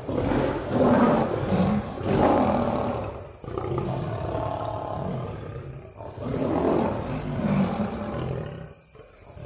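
Loud animal growls and roars in repeated surges every second or two, from wolves bringing down a young bison.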